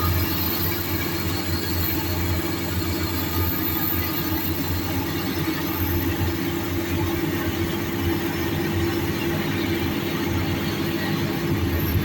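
Heavy earthmoving machinery's diesel engines running steadily under work, a constant low drone with no breaks.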